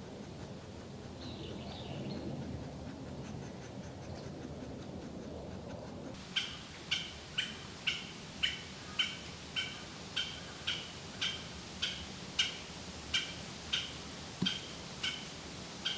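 Japanese green woodpecker calling: a long series of clear, evenly repeated notes, about two a second, starting about six seconds in. Before that there is only low background noise and a few faint chirps.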